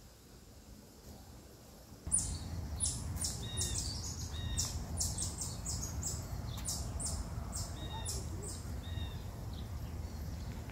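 Small birds chirping in quick runs of short high notes over a low outdoor rumble, starting suddenly about two seconds in.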